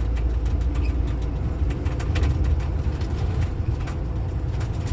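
Steady low drone of engine and road noise inside a tow truck's cab while driving at freeway speed, with scattered light ticks.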